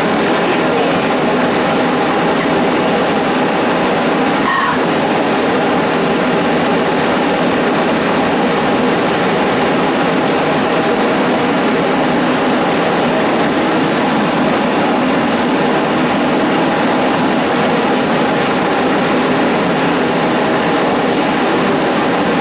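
Two homemade propane forge burners, fed through 0.023 MIG-tip jets, burning with a steady, even rushing noise.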